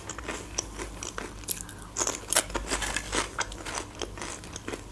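Ridged potato chips crunched and chewed close to the microphone: a quick, irregular run of sharp crackles.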